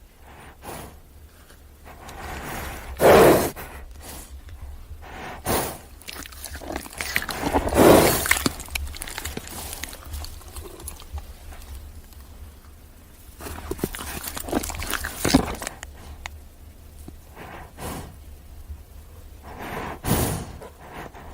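Horse vocalizing in separate loud, rough bursts with pauses between them, about five over the stretch; the loudest come about three seconds and eight seconds in.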